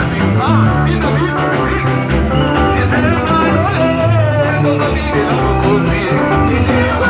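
Live church worship music with a band and singing: a steady bass line, drums, guitar and voices.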